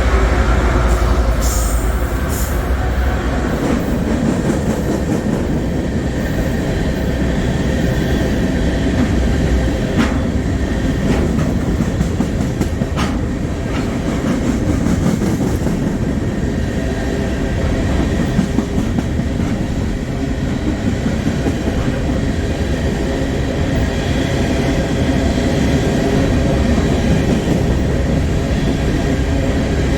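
Long freight train rolling past, a steady loud rumble of wheels on the rails with a few sharp clicks.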